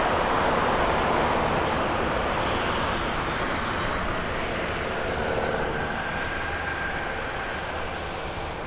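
Cessna 172S Skyhawk SP's four-cylinder piston engine and propeller droning steadily, slowly fading as the aircraft moves away.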